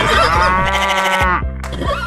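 Background music with a drawn-out animal call, a farm-animal sound effect, that cuts off about a second and a half in.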